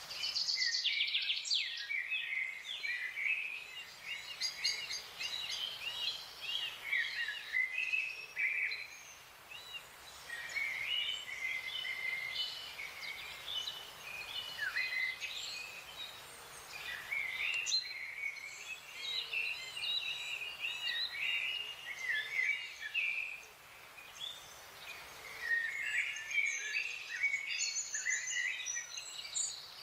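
Several forest songbirds chirping and singing at once, their short quick calls overlapping throughout, over a faint steady hiss.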